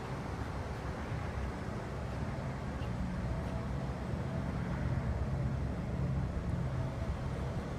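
1977 Cadillac Eldorado Biarritz V8 driving, a steady low engine rumble under even road noise.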